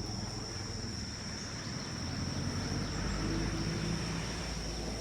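A steady, high-pitched insect drone, with a low engine rumble that grows louder about two seconds in.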